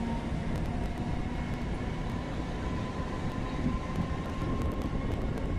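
Passenger train running along the track, heard from an open coach doorway: a steady rumble of the wheels on the rails.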